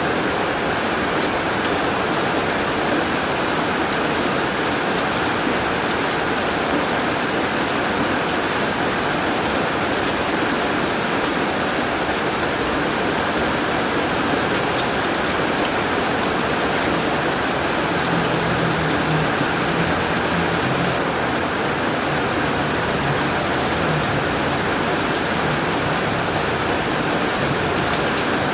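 Heavy rain falling steadily on a tin roof, with many small sharp ticks of single drops striking the metal.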